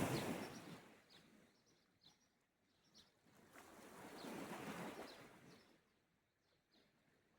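Small sea waves washing onto the shore: one surge dies away in the first second and another swells and falls away about halfway through, with near quiet between. Short bird chirps sound now and then.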